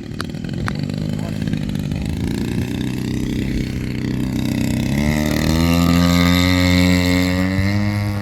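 DLE 55cc single-cylinder two-stroke gas engine on a quarter-scale RC airplane running at low throttle. About five seconds in it is throttled up, its pitch rising and holding higher and louder.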